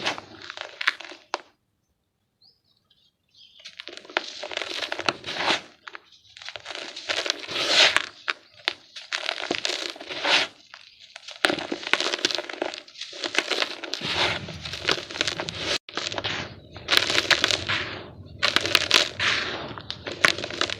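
Chunks of dry yellow dirt being crumbled, giving a gritty crunching and crackling in bursts of a second or two. There is a short silent gap just after the start.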